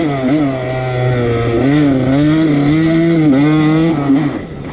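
Husqvarna TC85's 85cc two-stroke engine being ridden hard, the revs rising and falling several times as the throttle is worked, then dropping off as the throttle closes near the end.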